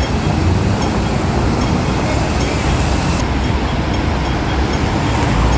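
Steady rumble of heavy street traffic.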